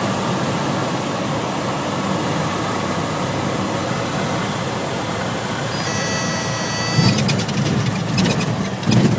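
Cessna 172 floatplane's piston engine and propeller running steadily, heard as a dense hum inside the cabin. Near the end a faint high whine joins, then a run of knocks and thumps.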